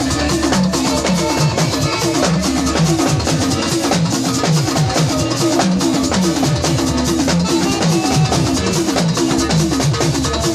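Band playing an instrumental passage: a drum kit keeps a steady beat under repeating bass and guitar lines.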